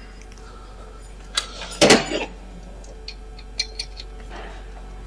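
Workshop sounds: a few sharp clinks and knocks of tools or metal parts, the loudest a double knock about two seconds in, over a low steady background hum.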